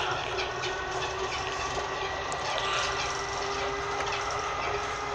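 Cabin noise of a moving electric passenger train: a steady running rumble with a constant motor whine and a few light clicks from the running gear.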